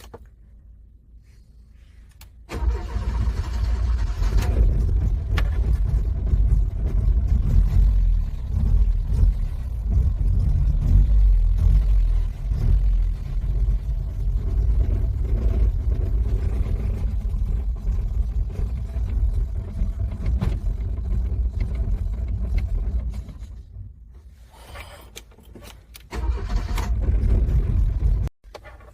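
Car engine cranking over in the cold, struggling to start: one long crank of about twenty seconds, then, after a short pause, a second brief crank of about two seconds that cuts off suddenly.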